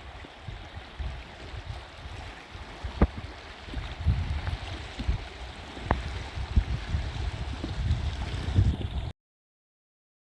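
Water splashing and gurgling around a kayak as it is paddled, with uneven low rumbling and a few sharp knocks. The sound cuts off abruptly near the end.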